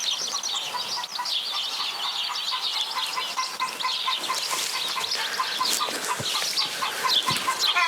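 Birds chirping: many quick high chirps and twitters overlapping, with a steady series of short repeated notes at about four or five a second.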